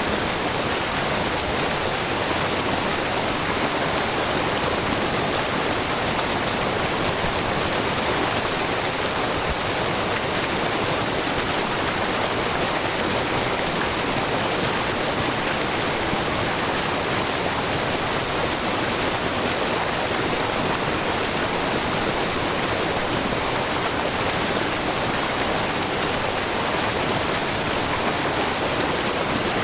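Steady rushing and splashing of a wide, low curtain waterfall: many thin streams of spring water falling about 3 m over rock into a pool, an even, unchanging wash of water noise.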